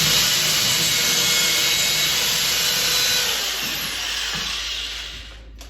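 Power drill boring a hole through drywall into a wooden wall stud, running steadily, then easing off and stopping near the end.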